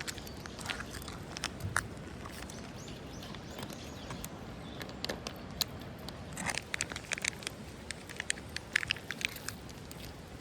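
A cat chewing and crunching its food, with irregular sharp crunches that come thicker in the second half, over a steady background hiss.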